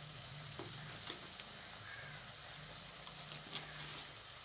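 Onions and green chillies frying softly in oil in a pan, a steady faint sizzle, with a few light clicks.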